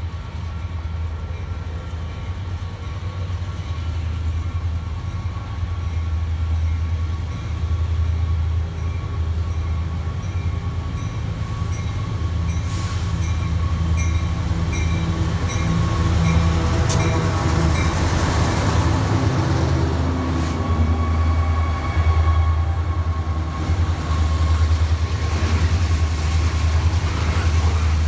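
Union Pacific freight train led by diesel locomotives approaching and passing: a steady deep engine drone that grows louder as the locomotives come by, followed by the rumble of double-stack container cars rolling past on the rails.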